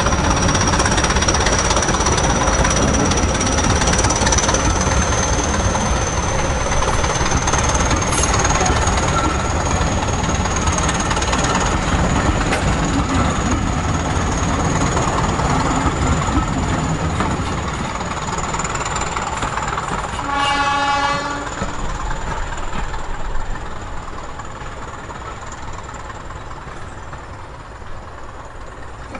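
Diesel-hauled passenger train rolling past, its wheels clattering over the track with a thin, steady high whine above, slowly fading as it draws away. About two-thirds of the way through, the train's horn sounds one short blast.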